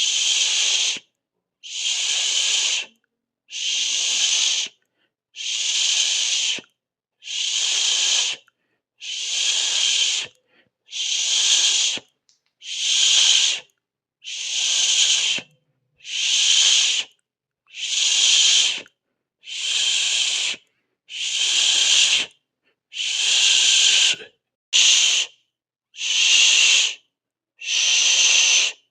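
A person hissing through the mouth, a steady 'sss' repeated over and over: about a second of hiss, a short silent gap, then the next, roughly every second and a quarter.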